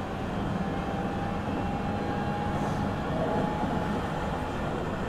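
Interior running noise of a Meitetsu 9500 series electric train in motion: a steady rumble of the wheels on the rails.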